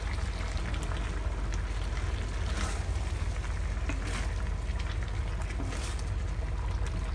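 Food cooking in a pan over a steady low rumble, with a few faint crackles and sizzles.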